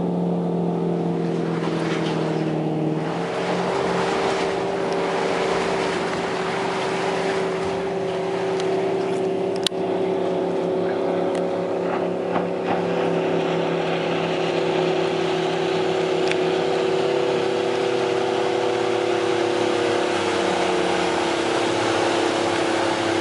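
2001 MasterCraft X-Star's inboard engine running steadily under way, its tone easing slightly lower over time, with a rush of water and wind. A single sharp click about ten seconds in.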